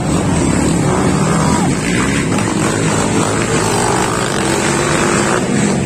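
Motorcycle engines running loud at racing revs, the sound of a motorcycle race.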